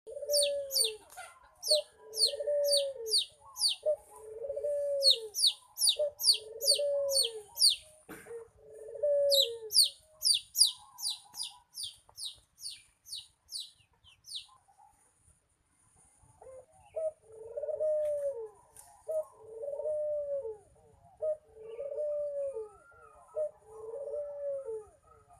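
Puter dove cooing over and over, about one coo a second, in two runs with a quiet gap in the middle: a young bird still learning its full perch coo. Over the first half, rapid high descending chirps from another small bird, and a single click about eight seconds in.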